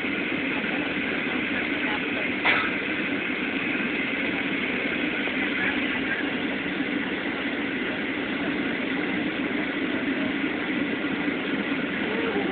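Steady noise of a Boeing 737's jet engines and airflow inside the passenger cabin during the landing, with a steady whine over the rumble. A single brief knock about two and a half seconds in.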